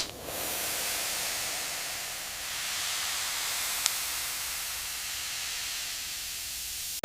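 A steady hiss, strongest in the upper range and without any pitch, starting and stopping abruptly, with one small tick a little after the middle.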